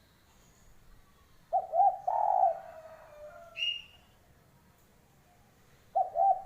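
Derkuku dove cooing: one phrase of several short, rolling coos followed by a longer trailing note, then a second phrase starting near the end. A brief higher chirp comes between the two phrases.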